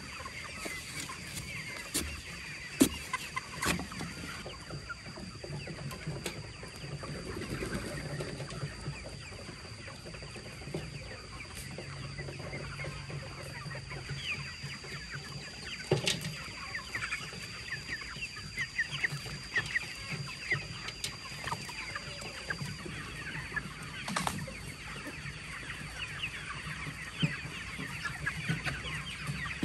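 Domestic fowl clucking: many short overlapping calls, with scattered sharp clicks and a faint steady high tone underneath.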